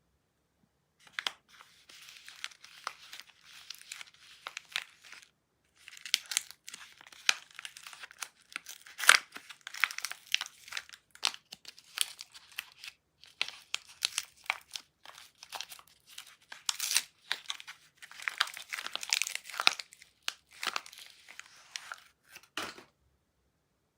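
Wrapping being unpacked from a bar of soap: continuous crinkling and tearing of the packaging, with a short pause partway through. A soft knock comes near the end.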